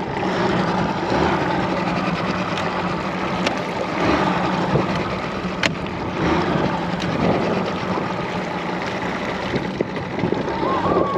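Outboard motor on a small aluminium boat running with a steady low hum, under wind noise on the microphone.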